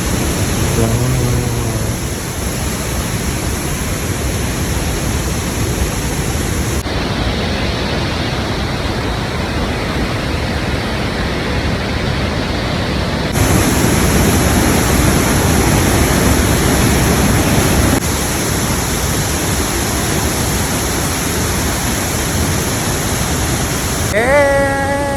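Steady rushing of a waterfall, with brief voices near the start and again near the end.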